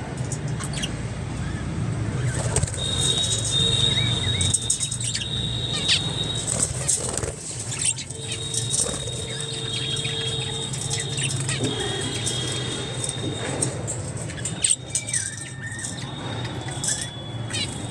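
Budgerigars chirping and fluttering their wings in a colony cage, with many short clicks and scratches and a few held high whistles over a steady low hum.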